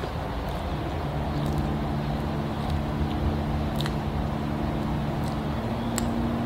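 Soft mouth sounds of cream sponge cake being eaten from the fingers: a bite and quiet chewing, with a few faint wet clicks as a finger is sucked clean near the end, over a steady low hum.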